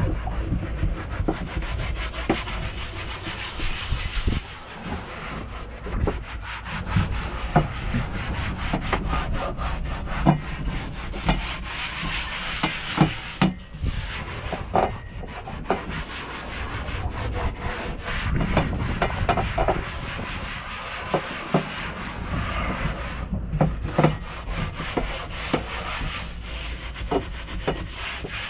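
Steady hand scrubbing and rubbing on a hard surface while cleaning, with frequent sharp knocks of things being handled.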